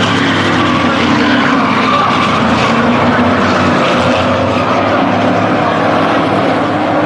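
Several race trucks' engines running around a short oval track, loud and continuous, their pitches sliding up and down as the trucks pass.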